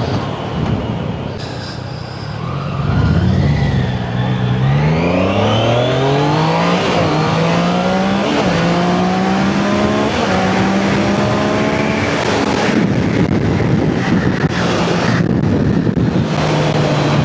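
Triumph Daytona 660's inline three-cylinder engine accelerating hard through the gears. The engine note climbs, dips briefly at each of about four upshifts, then holds steadier near the end, over wind rushing past.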